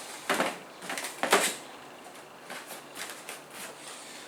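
Handling noises as computer parts and their packaging are moved about: two louder rustling scrapes near the start, about a second apart, then fainter shuffling.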